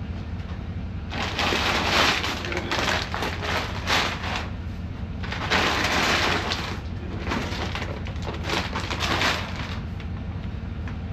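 Sacks of feed being handled and unloaded: rough rustling and scraping in two long stretches, with a few louder knocks as bags are set down.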